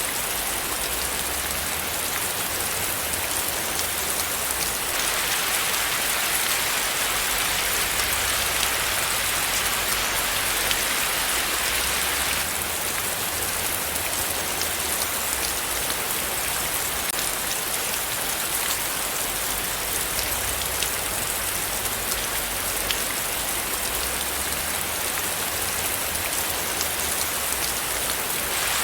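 Steady rain falling: an even hiss dotted with many small drop ticks. From about five to twelve seconds in it turns a little louder and brighter, then settles back.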